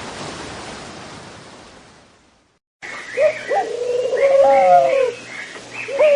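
A steady hiss-like noise fades out over the first two seconds. After a short silence, a person starts crying about three seconds in, in long, high, wavering wails.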